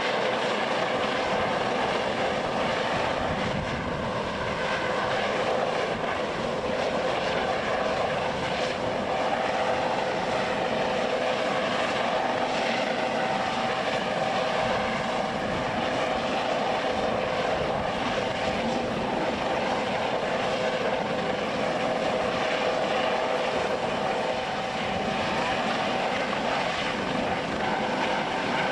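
Aircraft engines running steadily: a constant drone with a few steady tones held throughout.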